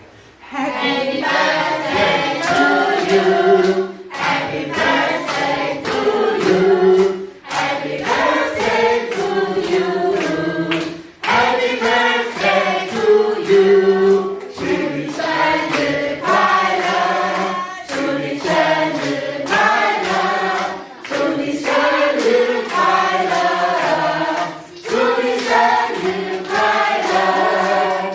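A group of people singing together in phrases, with short pauses between lines.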